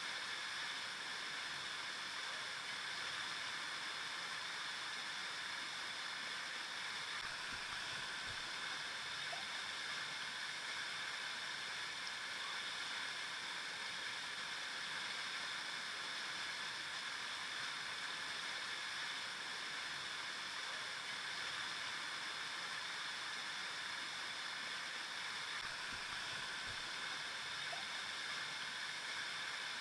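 A river flowing over rocks: a steady, even rush of water.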